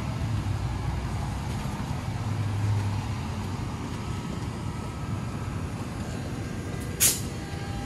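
NJ Transit push-pull train hauled by an ALP-46A electric locomotive rolling across a concrete railway overpass: a steady rumble with a low hum that drops away about three seconds in. A single sharp clank near the end is the loudest sound.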